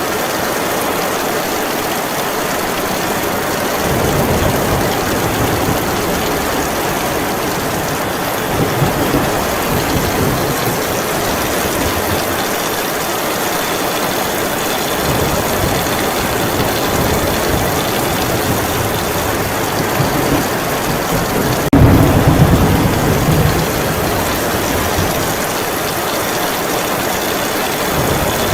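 Heavy rain falling steadily, with distant thunder rumbling now and then and a sudden, louder clap of thunder about two-thirds of the way through.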